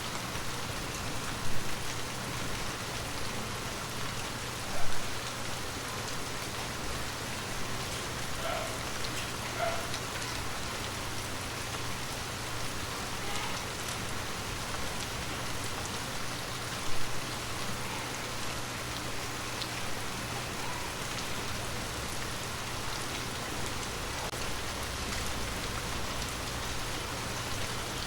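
Water drops tapping on glass over a steady rain-like hiss, with a few short pitched plinks and three louder single drips, about a second and a half in, near five seconds and around seventeen seconds.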